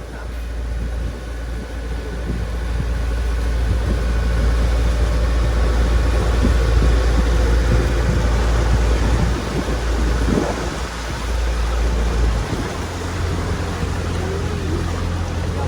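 Motorboat engine running under way, with wind rumbling on the microphone; the deep rumble shifts about twelve seconds in.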